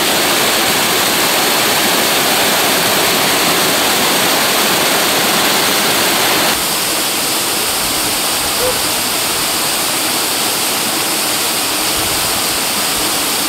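Mountain stream rushing steadily. About six and a half seconds in, the sound shifts abruptly to a slightly quieter, less hissy rush.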